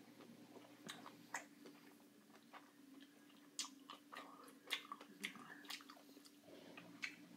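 A person biting and chewing chunks of fresh pineapple close to the microphone: irregular wet smacks and crunches, a few of them sharper, over a faint steady hum.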